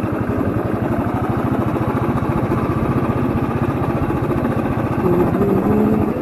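Motorcycle engine idling with a steady, even pulse. A few short pitched tones sound over it about five seconds in.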